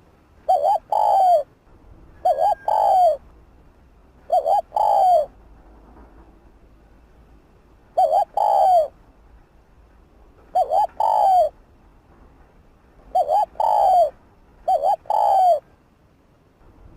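Spotted dove cooing: seven phrases, each two quick short notes followed by a longer falling coo, coming every second or two.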